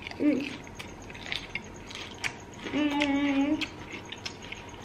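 Close-miked chewing of Caesar salad by two people, crisp crunching clicks coming thick and fast. A short 'mm' near the start and a longer hummed 'mmm' of enjoyment about three seconds in.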